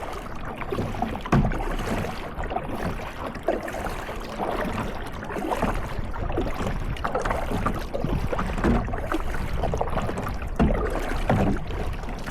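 Kayak paddles dipping and splashing in lake water, with irregular thumps every second or two.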